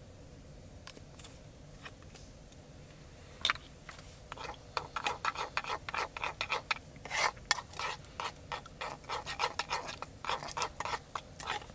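A single sharp click, then a long run of quick scraping strokes, several a second, starting about four seconds in and stopping just before the end.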